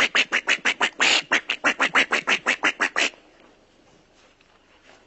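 A rapid run of duck quacks, about six a second, that stops abruptly about three seconds in.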